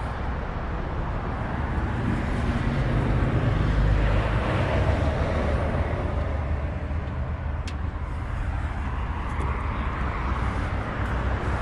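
Steady rumble of road traffic, swelling as a vehicle goes by about four seconds in, with a single sharp click near the middle.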